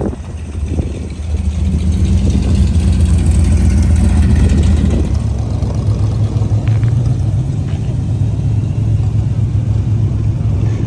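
Car engine running with a deep, steady rumble, getting louder about a second and a half in and settling slightly lower in pitch about halfway through.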